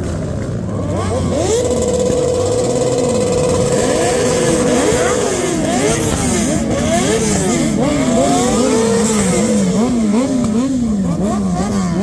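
Several car engines revving repeatedly, their pitch rising and falling over one another. For a few seconds one engine is held at steady high revs. Later one is blipped in quick regular cycles, about two a second.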